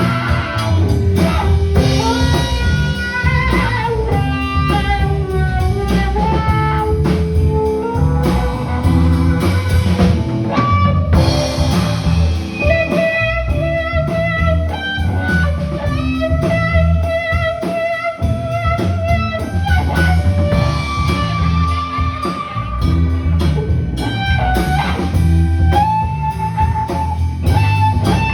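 Live blues band playing: a lead guitar holds long, bending notes over bass and drums.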